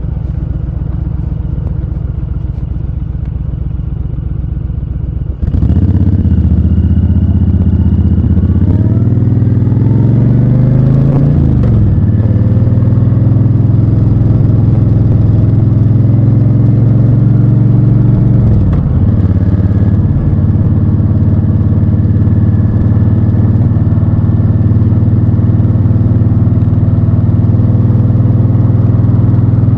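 Honda Fury's 1312 cc V-twin motorcycle engine running. About five seconds in it gets suddenly louder and climbs in pitch as the bike accelerates through the gears, dips in pitch once near two-thirds of the way through, and otherwise runs steadily at speed.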